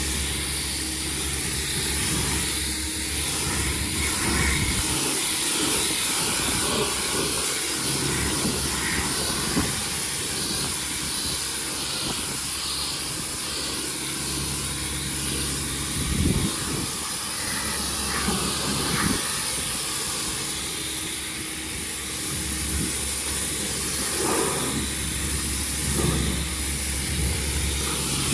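Pressure washer spraying water in a steady hiss, with a low engine drone running underneath that drops out briefly about five seconds in.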